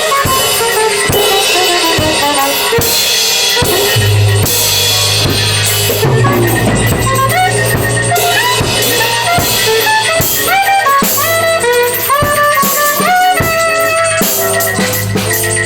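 Live free-improvised band music: a drum kit with bass drum and snare keeps up steady hits while a low note is held through the middle, and a pitched instrument plays stepping runs of notes in the second half.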